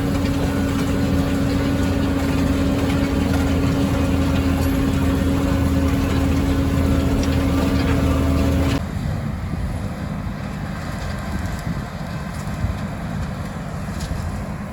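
Tractor engine running steadily under ploughing load, with a constant hum. About nine seconds in, the sound cuts abruptly to a quieter machine rumble with some wind noise.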